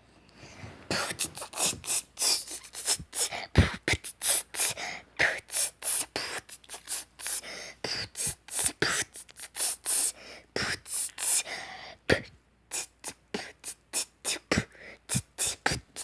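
A person beatboxing: quick mouth percussion of sharp hissing and popping strokes. It starts about a second in and has a brief break about three-quarters of the way through.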